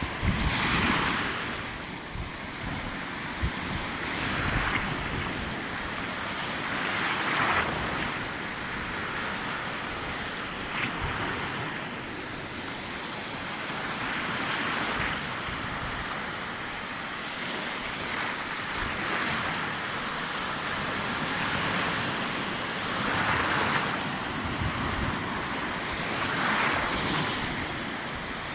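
Sea waves breaking and washing in over a steady rush of surf, a louder swell every three to four seconds.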